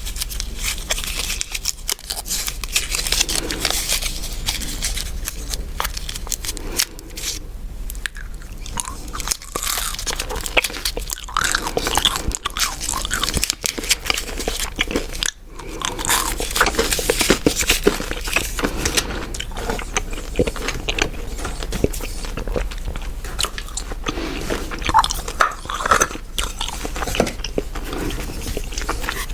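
Chewing gum close to the microphone: a continuous run of wet clicks and smacks.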